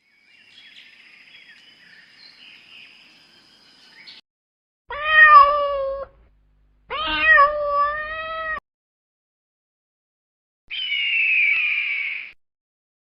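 A cat meowing: two loud, drawn-out meows a little past the middle, then a higher, rougher call with a falling pitch near the end. Faint high-pitched chirping comes first.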